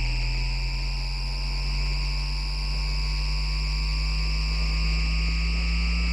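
Bombardier MITRAC IGBT VVVF inverter drive of an FGV Class 4200 Flexity Outlook tram, heard as electrical noise through an AM radio. It makes a steady high whine and a low hum, while a pair of tones slowly rises in pitch as the motors speed up.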